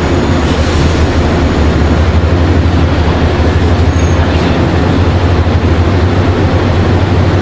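A train running through the station: a loud, steady rumble and rush of noise with no break.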